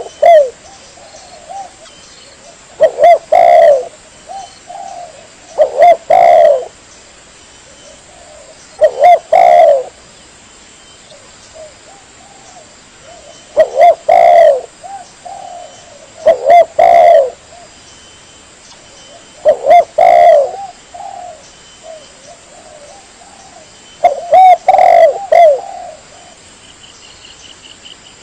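Spotted dove cooing: a loud phrase of a few coos, repeated about every three seconds.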